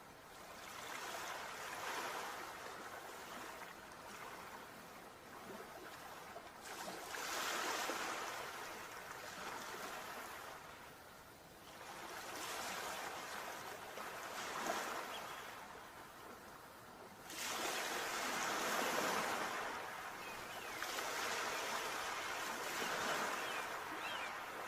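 Sea waves breaking and washing up on the shore, the rush of surf swelling and ebbing in about five surges a few seconds apart.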